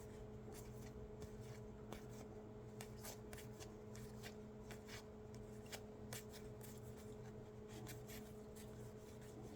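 Trading cards being handled and flipped one behind another: soft, irregular card flicks and slides, over a faint steady hum.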